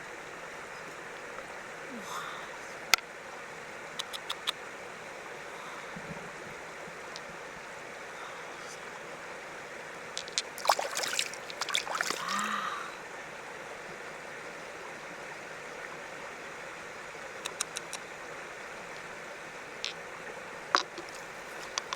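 Steady running water, with scattered sharp clicks and knocks and a busier cluster of them about halfway through.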